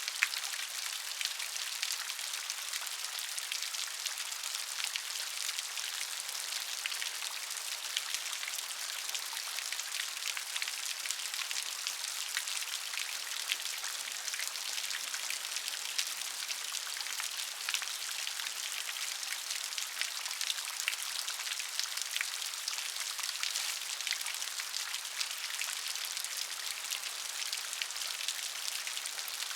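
Steady rain falling, a dense patter of many small drops with a hiss concentrated in the upper range and no deep rumble.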